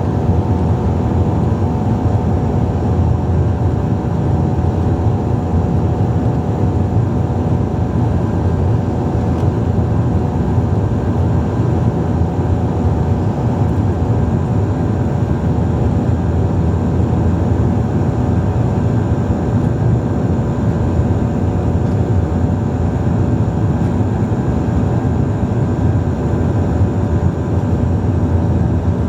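Steady drone of a Bombardier Dash 8-Q400's Pratt & Whitney PW150A turboprops and propellers heard inside the cabin: a loud low rumble with several steady tones above it.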